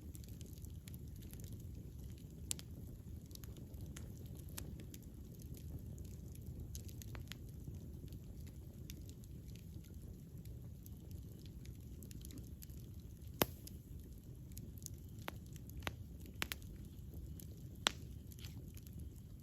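Wood campfire burning with a steady low rumble of flame and sharp crackles and pops scattered through it, the loudest about two-thirds of the way in and near the end.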